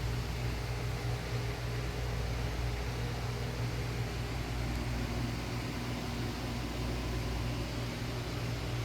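Commercial beverage refrigerator's compressor and fan running with a steady low hum and an airy hiss.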